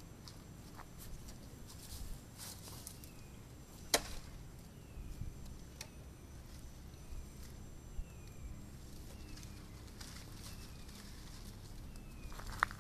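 Quiet outdoor ambience: a bird repeats a short falling note about once a second over a low rumble, with a few sharp clicks, the loudest about four seconds in.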